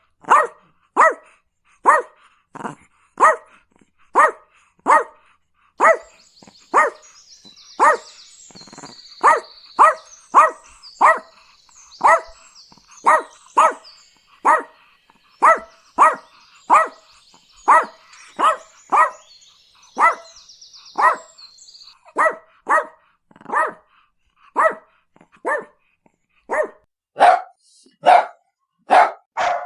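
A puppy barking over and over in a steady rhythm, one or two short barks a second. Faint high chirping sounds underneath through the middle stretch.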